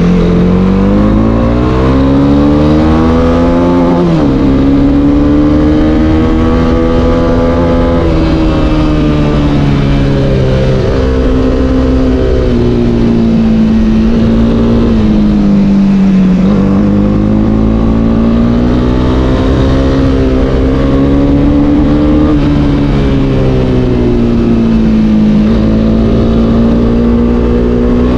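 Honda CB300R's single-cylinder engine pulling under throttle on the move, its pitch climbing and then dropping abruptly about four seconds in, as at an upshift, before rising and falling with the throttle.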